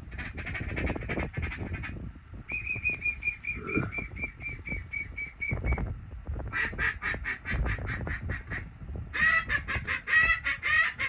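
Rapid runs of short duck quacks, about seven a second, in four bursts, with the last and loudest run near the end.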